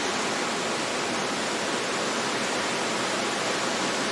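Steady rush of fast-flowing water, a continuous even hiss with no break or change.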